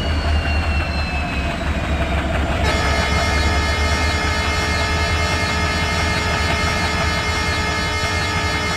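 Diesel-hauled train at a station: a deep, steady engine rumble, joined about three seconds in by a sustained sound of several steady pitches held to the end.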